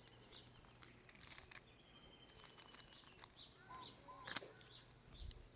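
Small birds chirping, a run of short high chirps that each drop in pitch, several a second, with a single sharp click a little after four seconds in.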